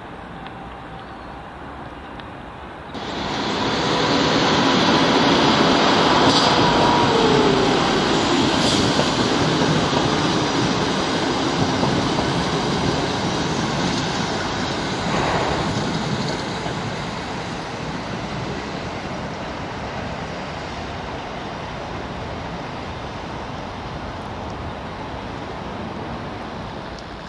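Passenger train running through a station: a steady rail rumble that comes in suddenly about three seconds in and slowly fades over the second half. A short falling squeal is heard about seven seconds in.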